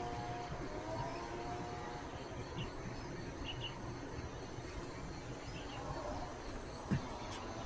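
Outdoor ambience: faint, scattered high chirps over a low steady background noise, with a single short thump about seven seconds in.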